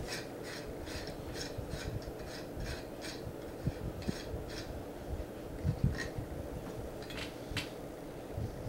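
A wrench working on a balance bike's headset bearing adjuster: a run of small metallic clicks and scrapes, a few a second, with a few dull knocks among them.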